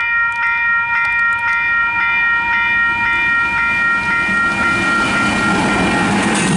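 Western Cullen Hayes electronic level-crossing bells ringing in a rapid even pulse, about two strokes a second. A train passes over the crossing, its rumble growing as the bell tones fade out in the second half.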